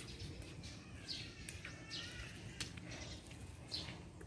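Birds chirping: a few short, downward-sliding calls over faint steady background noise, with a couple of small clicks.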